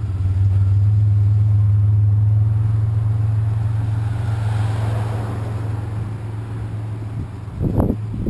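Vehicle engine idling with a steady low hum. Road noise swells and fades around the middle, and there is a short knock or clatter near the end.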